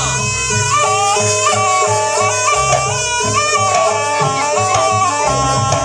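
Jaranan Buto gamelan accompaniment: a reedy slompret melody moving in steps over a steady beat of low drums and gongs.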